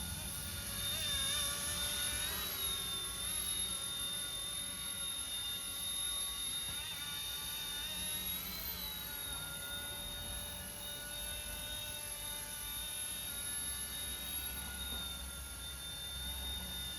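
RC ERA C128 micro RC helicopter in flight: a steady high motor whine with rotor buzz, its pitch wavering briefly about two seconds in and again around eight seconds.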